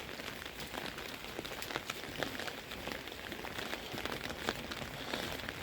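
Steady rain falling, with many small drops ticking sharply close by.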